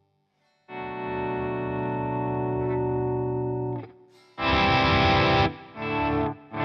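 Electric guitar played through a Hotone Soul Press wah/volume pedal. After a brief silence, one chord rings for about three seconds. A louder, much brighter chord follows, then two short stabbed chords.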